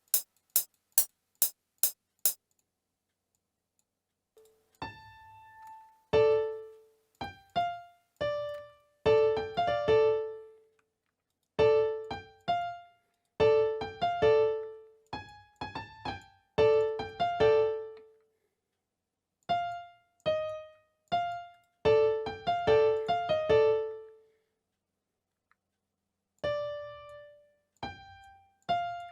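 Piano-type keyboard sound played note by note in short, irregular phrases with pauses between them: a melody being tried out in a music program. It opens with a quick run of about seven sharp clicks, roughly three a second.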